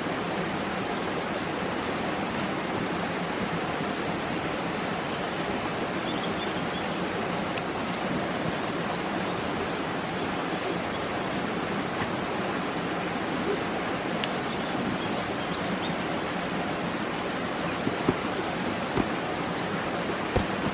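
Steady rushing water from a waterfall or stream, an even unbroken noise, with a couple of faint clicks about seven and fourteen seconds in.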